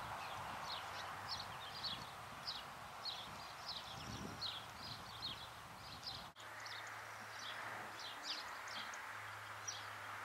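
Small birds chirping repeatedly, two or three short high chirps a second, over a steady outdoor hiss. The sound briefly cuts out about six seconds in.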